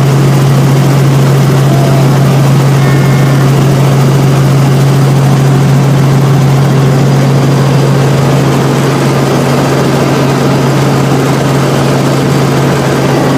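Helicopter in flight: a loud, steady engine and rotor drone with a strong low hum that holds unchanged.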